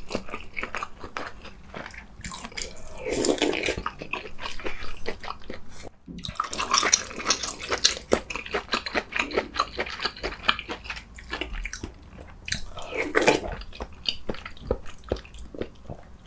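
Close-up wet chewing and mouth clicks of a person eating spoonfuls of soft tofu stew, with a few louder moist bursts of eating noise.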